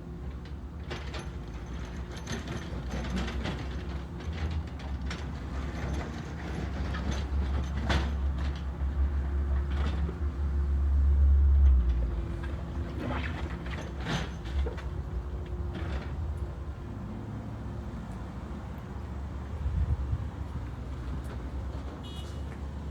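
Backhoe loader's diesel engine running with a steady low rumble that swells to its loudest about halfway through, then drops back, with scattered metallic clanks and knocks over it.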